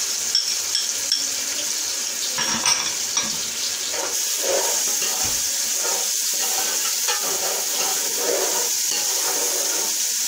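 Ginger-garlic paste sizzling steadily in hot oil with browned onions in an aluminium pot, stirred with a metal slotted spoon. A few light clinks of the spoon against the pot near the start.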